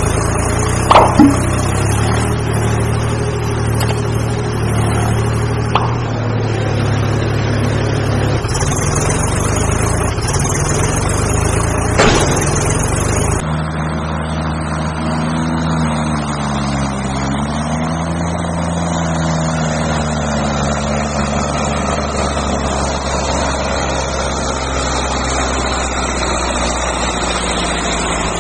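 Heavy diesel engine running steadily, with a few sharp knocks in the first half. About halfway through the sound changes abruptly, and the engine note then sags and picks up again, as if briefly loaded.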